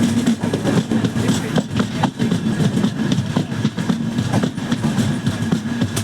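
A passenger train running on the track: a steady rumble of wheels on rails with a low hum and scattered clicks.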